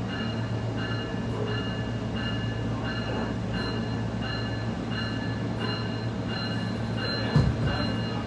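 SMART diesel multiple-unit train running steadily with a low engine hum, while a warning bell dings about twice a second through a crossing. A single low thump comes near the end.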